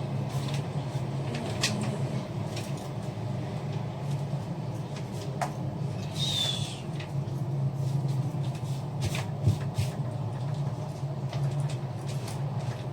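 Household items being handled: scattered clicks and knocks, with a brief squeak about six seconds in and a sharper knock near the end, over a steady low hum.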